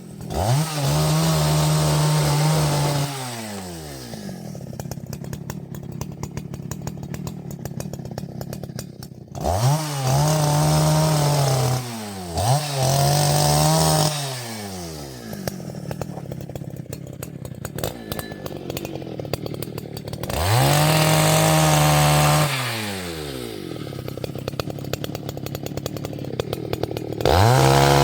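Two-stroke chainsaw fitted with an Oregon semi-chisel chain, run up to full throttle and held for a couple of seconds, then dropped back to idle. This happens five times, the last just at the end.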